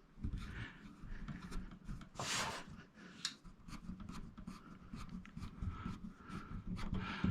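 Handling noise from TV parts being moved: scattered light clicks and rubbing, with a brief scraping swish about two seconds in.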